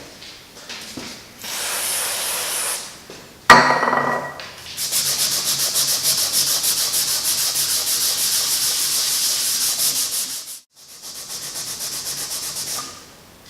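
Scotch-Brite pad scrubbed back and forth over the rusty cast iron table saw top, wet with rust remover, in quick even strokes. The scrubbing breaks off briefly about ten seconds in, then resumes. Before the scrubbing there is a short hiss and a sharp knock.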